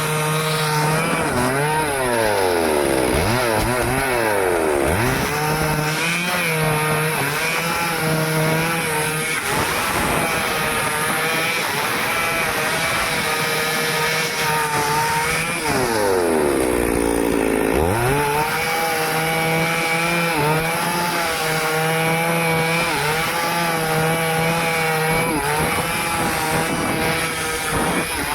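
Stihl chainsaw running at high revs while cutting wood. The engine pitch drops and picks back up a few times, with one long dip to low revs a little past the middle before it climbs again.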